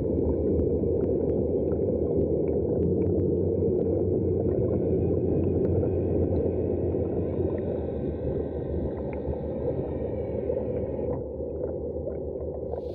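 Aiper Seagull Pro robotic pool cleaner running in the pool: a steady churn of pumped water and gurgling with a faint motor whine above it, the whine fading out near the end.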